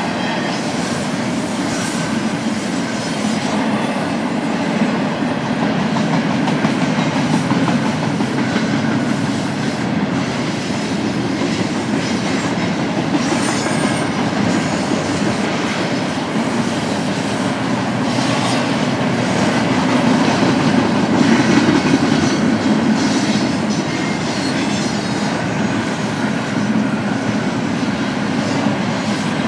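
Freight cars of a BNSF intermodal stack train rolling steadily past, steel wheels running on the rails.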